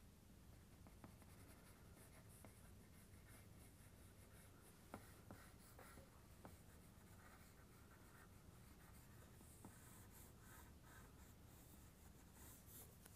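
Faint scratching of a drawing tool on paper, with a few soft clicks, the clearest about five seconds in.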